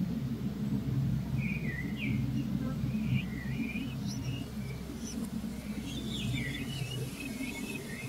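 Small birds chirping in short, sweeping calls, in a few clusters, over a steady low rumble.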